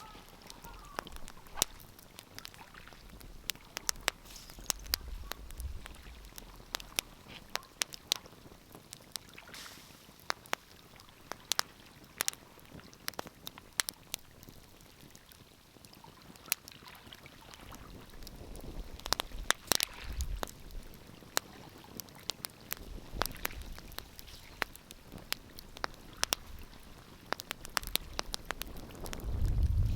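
Wood fire crackling, with irregular sharp pops over a soft hiss of burning. A loud low rumble comes in near the end.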